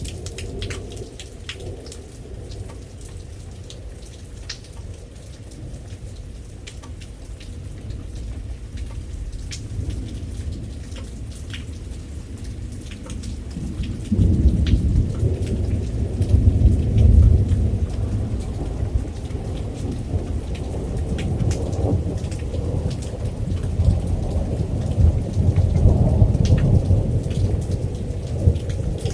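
Thunderstorm: steady rain with scattered drops ticking on a surface, and rolling thunder. A low rumble builds suddenly about halfway through and swells again near the end.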